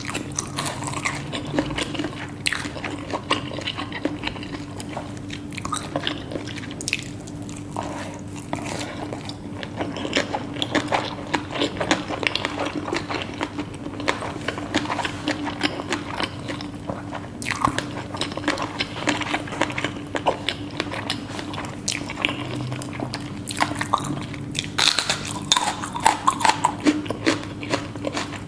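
Close-miked eating sounds: chewing and biting, with many short crisp crunches and wet mouth clicks. A faint steady hum runs underneath.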